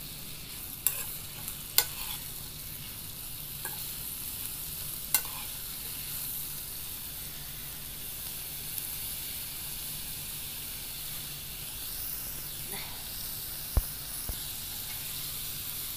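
Papaya cubes with garlic, ginger and chilli sizzling steadily in mustard oil in a wok over a wood fire. A few sharp clinks of the metal spoon against the wok come in the first five seconds, and one more near the end.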